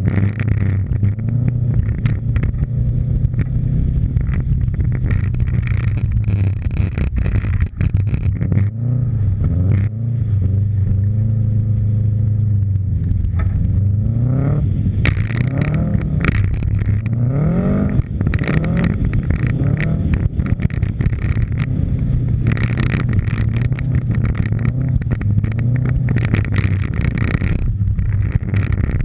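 Subaru Impreza STI's turbocharged flat-four engine driven hard on snow, heard from inside the car. It runs at steady high revs, with the pitch dropping and rising several times about halfway through.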